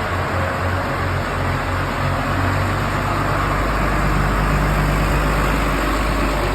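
Farm tractor engine running steadily while the loader carries a heavy load; the engine note firms up and gets a little louder about two and a half seconds in.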